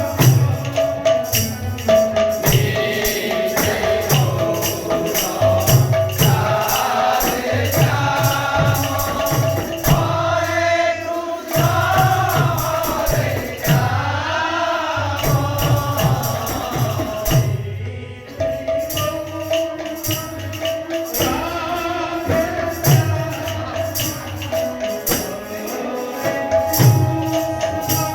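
Kirtan: devotional group singing over a steady held tone, with repeated drum strokes and jingling metal percussion keeping the beat.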